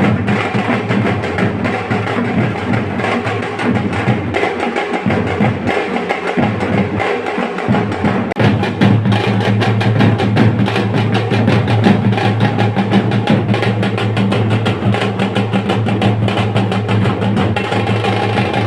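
Percussion-driven music with a fast, steady drum beat over a sustained bass line. It gets louder and busier about eight seconds in.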